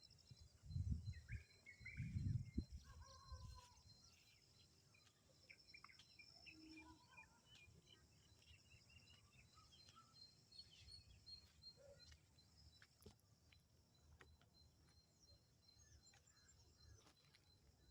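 Quiet outdoor ambience: steady high-pitched insect chirring with scattered faint bird chirps. A few low rumbling thumps come in the first few seconds.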